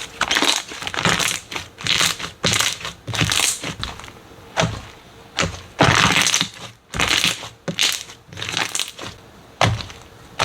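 Slime being squeezed and pressed by hand, making crunchy, crackling sounds in irregular bursts about once or twice a second.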